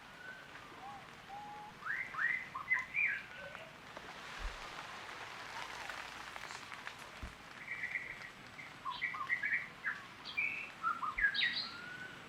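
Birds chirping in two bouts of quick, short rising notes, about two seconds in and again later, over a faint steady hiss.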